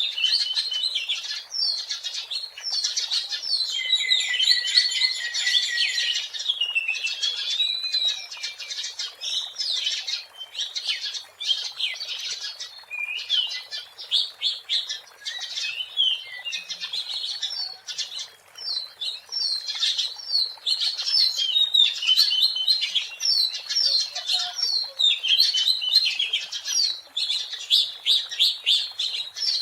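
Oriental magpie-robin singing without a break: a fast, varied run of clear whistles, trills and chattering notes.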